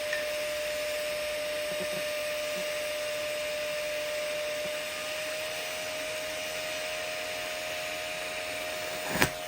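Arc welding the hot pass on a steel pipe joint at about 140 amps: a steady hiss with a faint steady tone under it. It stops near the end with a sharp click.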